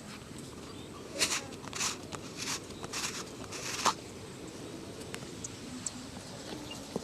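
A shoe being worked in about five quick scratchy rubbing strokes during a shoe shine, between about one and four seconds in, over a low steady background.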